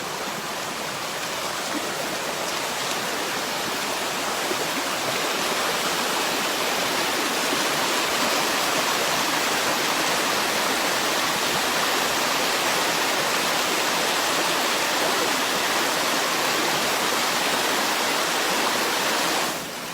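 Rushing water of a rain-swollen creek, a steady even rush that grows a little louder over the first few seconds and then holds.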